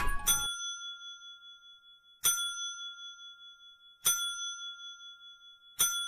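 A bright bell sound effect dinging four times, about once every two seconds, each ding ringing out and fading before the next.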